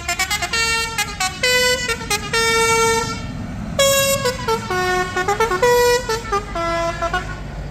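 A musical vehicle horn playing a tune: a quick run of short notes stepping up and down in pitch, with a few held longer, over the steady low rumble of passing tractor engines.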